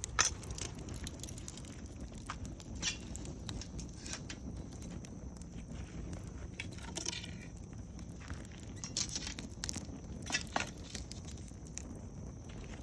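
Campfire crackling: scattered sharp pops and snaps, with a short rattling run of ticks about seven seconds in, over a low steady rumble.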